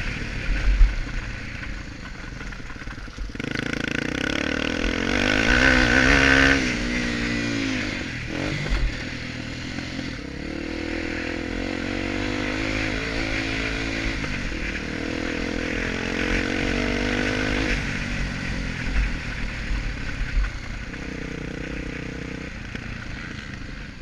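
Honda Tornado's 250 cc single-cylinder four-stroke engine on a motocross lap, revving up hard a few seconds in, then running at lower, rising and falling revs, with a few knocks from the bike over the ground.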